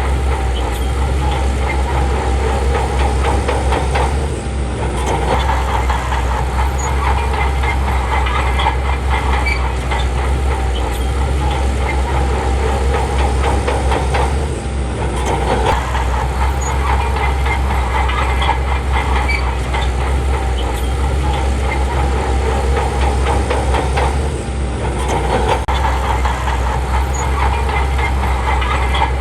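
Crawler bulldozer's diesel engine running steadily under load, with the rapid clicking and clanking of its steel tracks. The level eases briefly about every ten seconds.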